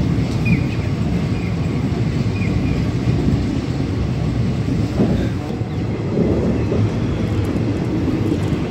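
Moving passenger train running steadily along the track: a continuous rumble of wheels over rails, heard from the train itself.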